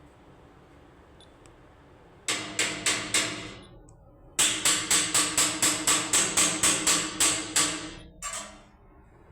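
A rapid series of sharp, ringing knocks, about four a second: a short run of five, a pause of under a second, then a longer run of about fourteen and a last pair near the end.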